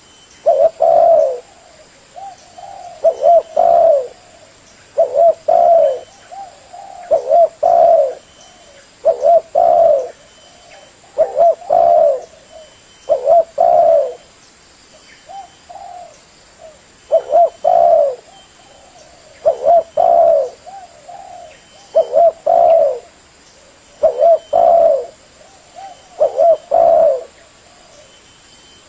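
Spotted dove (tekukur) cooing its repeated multi-note call, one phrase about every two seconds.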